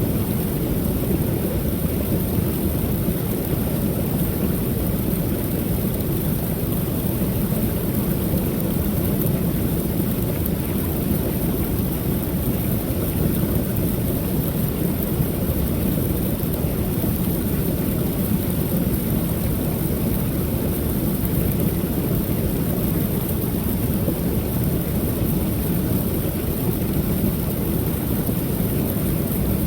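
Creek waterfall: water pouring over the falls in a constant low rushing rumble with some hiss.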